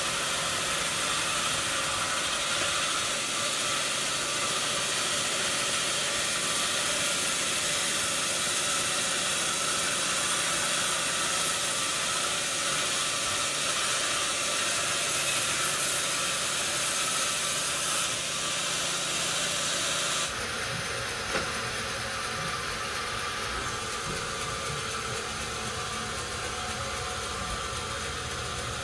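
Sawmill machinery running with a steady, loud hiss; the sound changes abruptly about twenty seconds in, with less hiss and more low rumble.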